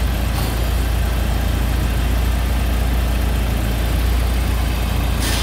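BMW E36 engine idling steadily, a low even hum. A brief hiss comes near the end.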